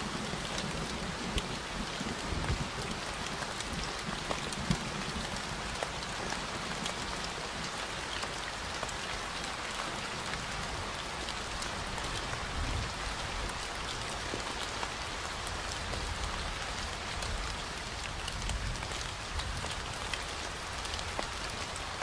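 Steady rain falling, with many individual drops heard close up as sharp ticks over an even hiss.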